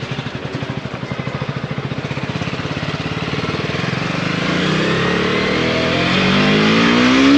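KTM Duke 250's 249 cc single-cylinder engine running at low revs with an even pulsing beat, then accelerating from about four seconds in, its pitch rising steadily.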